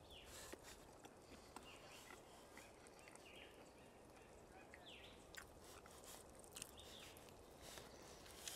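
Near silence: faint chewing and small wet mouth clicks from someone eating a sloppy chili burger, with a few faint high bird chirps.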